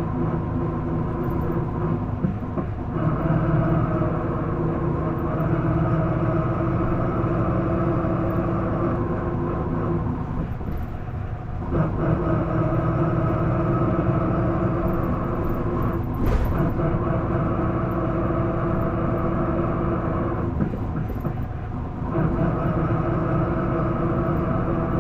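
Interior sound of an Isuzu PDG-LV234L2 city bus under way: its engine and driveline run with a steady tonal drone that dips briefly three times, about two seconds in, about eleven seconds in and near the end. The bus carries a noise its uploader calls abnormal (異音), one it did not seem to make when new.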